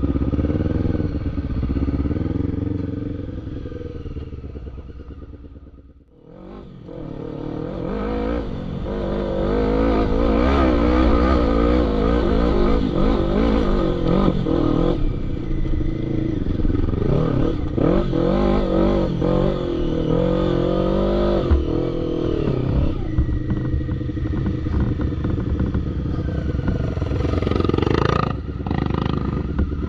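Quad bike (ATV) engines revving, the pitch rising and falling. The sound dies away about six seconds in, then comes back loud with repeated revving.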